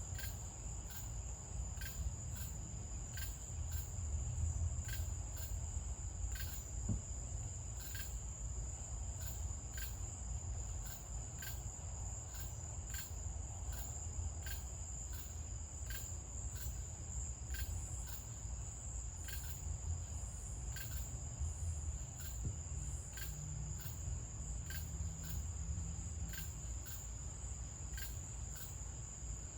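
Night insects: a steady high-pitched trill running on without a break, with short chirps repeating regularly a little under a second apart, over a low steady rumble.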